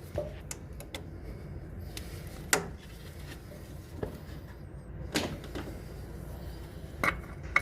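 Scattered light clicks and knocks from hands working on metal engine parts, turning a hose clamp on a pipe, over a steady low hum.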